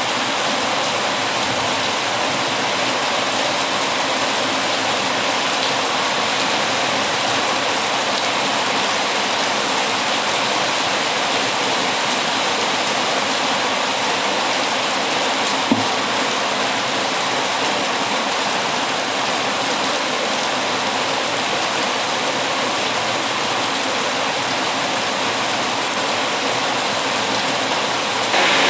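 Steady heavy rain, an even rushing hiss, with a single sharp pop about halfway through; it turns slightly louder right at the end.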